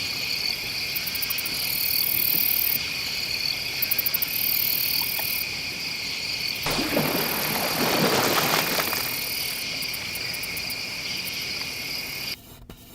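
Insects chirping in a steady high chorus with a pulsing trill. A short rush of noise about seven seconds in. The chorus cuts off suddenly near the end.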